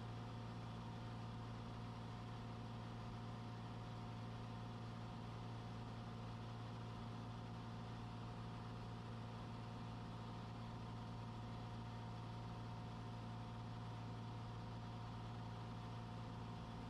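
Cessna 182's piston engine and propeller droning steadily in cruise flight, heard inside the cabin, with a constant low hum and a few steady higher tones.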